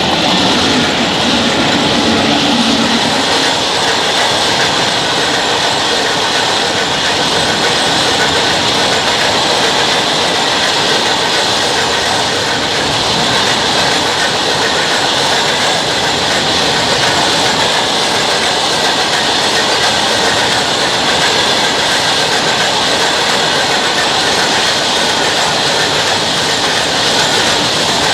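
Freight train wagons rolling past close by, a loud steady rush of wheels on rail with a thin high-pitched wheel squeal held over it.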